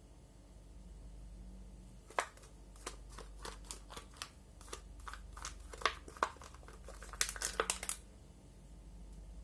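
Irregular crinkling and clicking of something being handled, a quick run of sharp little clicks from about two seconds in until about eight seconds in, over a low steady hum.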